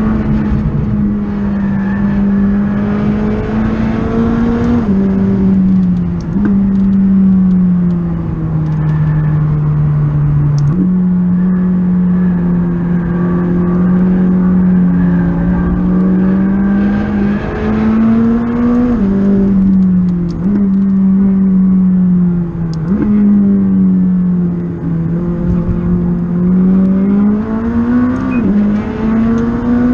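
McLaren 600LT's twin-turbo V8 heard from inside the cabin, pulling hard on track: its note climbs steadily and then drops or jumps sharply several times as it changes gear.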